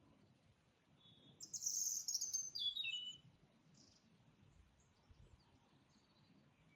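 A songbird sings one phrase of about two seconds, starting about a second and a half in: a fast high trill that steps down through a series of notes. Faint chirps from other birds and a low outdoor rumble sit under it.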